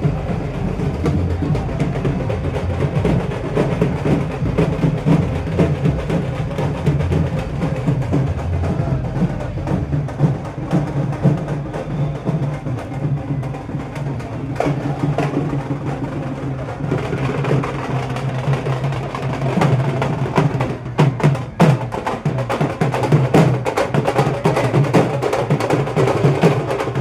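Drums beaten in a fast, dense rhythm, with sharper, harder strikes coming through from about two-thirds of the way in.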